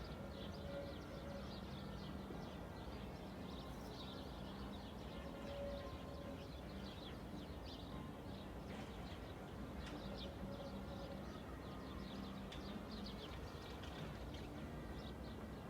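Small birds chirping busily and continuously over a steady low background rumble.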